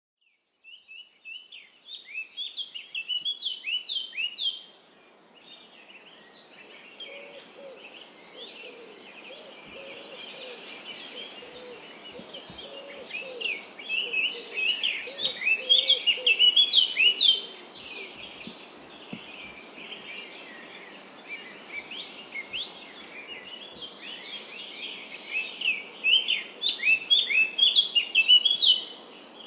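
Songbirds chirping and twittering in rapid bursts of high, quick notes, loudest near the start, in the middle and near the end, over a faint steady background hiss. A lower, softer series of calls runs through the first half.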